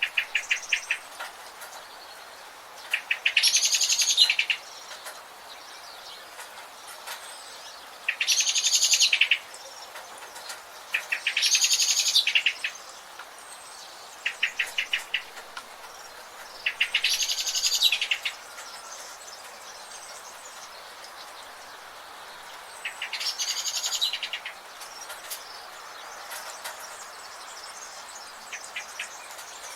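A bird singing the same song phrase five times, each a rapid high trill of about a second and a half, with short runs of quick ticking notes between phrases, over a steady background hiss.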